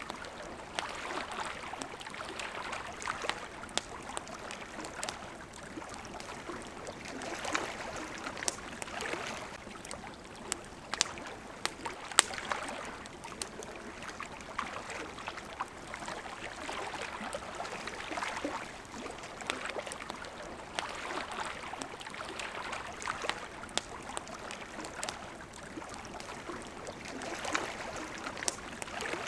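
Small waves lapping at the shore in soft swells every few seconds, with a campfire crackling over them: scattered sharp pops and snaps, one louder pop about halfway through.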